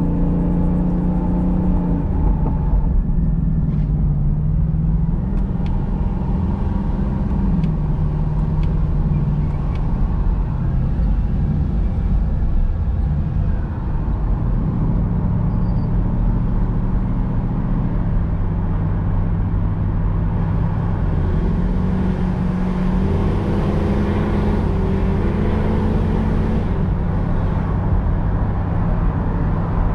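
Ford Mustang GT's 5.0-litre V8 running at low revs as the ten-speed automatic shifts up through its gears, the engine note changing pitch in steps at each shift. Wind rushes past the open convertible top.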